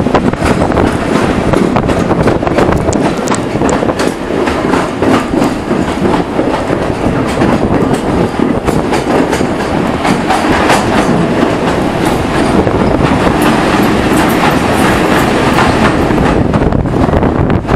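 A moving railway passenger coach heard at its open window: a loud, steady rush of wheel and running noise, with rapid clicks of the wheels over the track.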